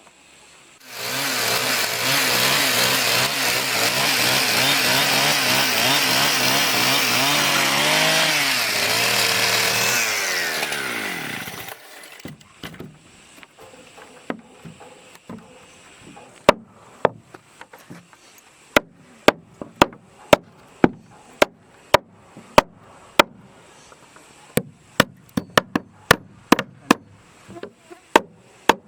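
Chainsaw running hard for about ten seconds, its engine note wavering as it works, then winding down and stopping. After a pause comes a run of sharp knocks, about two a second.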